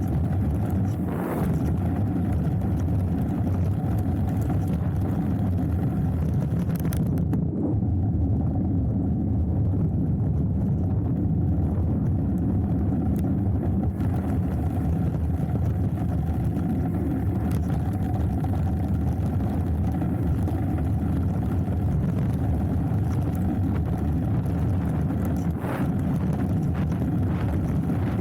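Steady low rumble of a hardtail mountain bike rolling down a dirt trail, mixed with wind on the action camera's microphone, with a couple of brief rattles, about a second in and near the end.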